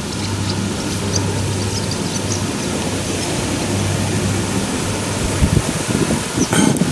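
A steady rushing noise with a low rumble, and a short pitched call near the end.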